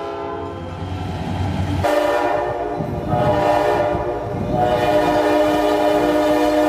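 Locomotive air horn blowing a sustained chord over a train's rumble, growing louder about two seconds in.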